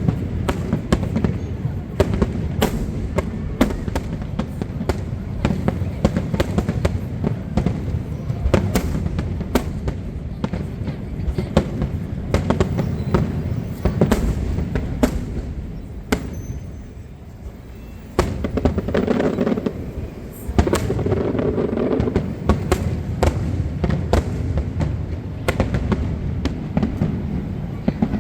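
Aerial fireworks going off in rapid succession: a dense string of bangs and crackles over a constant low rumble, with a brief lull a little past halfway.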